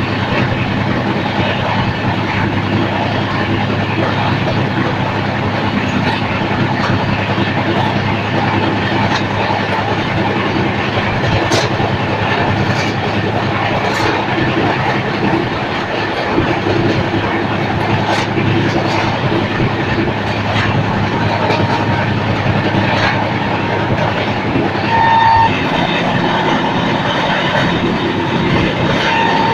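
Shan-e-Punjab Express passenger train running along the track: a steady rumble of wheels on rail, with scattered sharp clicks as the wheels pass over rail joints.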